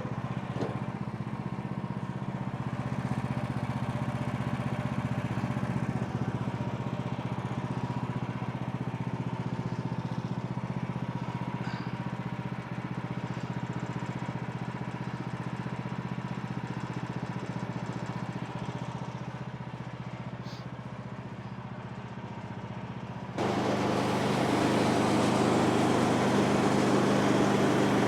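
The bandsaw sawmill's gas engine runs steadily. About 23 seconds in, the sound suddenly gets louder and harsher.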